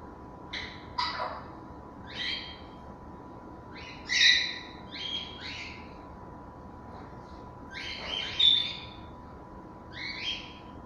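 African grey parrots calling: a string of about ten short calls, spaced irregularly, the loudest about four and eight seconds in. A faint steady tone runs underneath.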